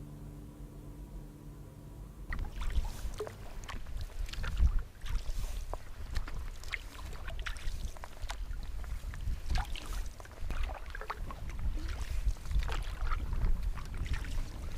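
A few steady musical tones end about two seconds in. Then comes outdoor movement: a low wind-like rumble on the microphone with many irregular knocks and rustles.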